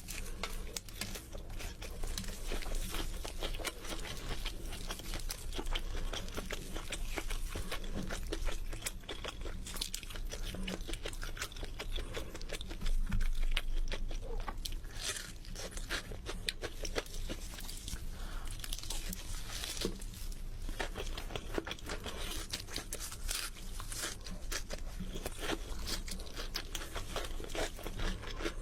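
A person chewing and crunching a meal of chicken and instant noodles close to the microphone: a dense, continuous stream of crackly bites and crunches, a little louder about halfway through.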